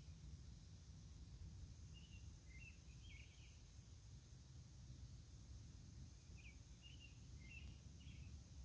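Faint outdoor night ambience: a steady high insect drone over a low rumble, with two short series of bird chirps, one about two seconds in and another about six seconds in.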